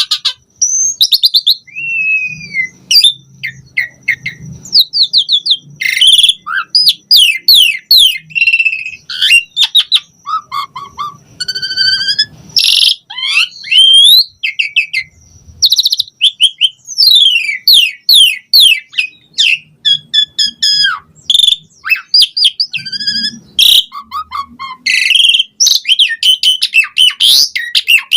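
Jalak suren (pied starling) singing a long, varied song: quick whistles, rapid chattering trills and rising and falling glides following each other with only brief pauses.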